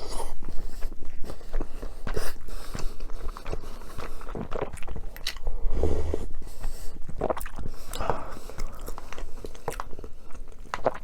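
Close-miked eating sounds: a person biting and chewing food, with many short sharp clicks and crunches at an uneven pace.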